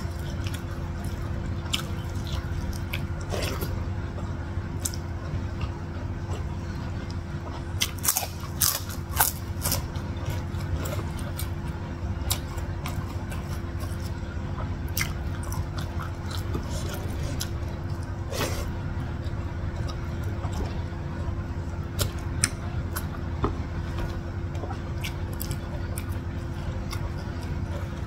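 A person chewing and eating close to the microphone: wet mouth sounds with scattered crunches and clicks, a loud cluster about eight to nine seconds in. A steady low hum runs underneath.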